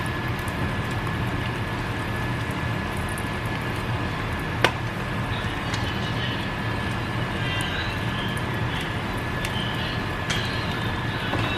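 Egg frying in sausage grease in a pan, a steady sizzle with small crackles and pops. One sharp click about four and a half seconds in.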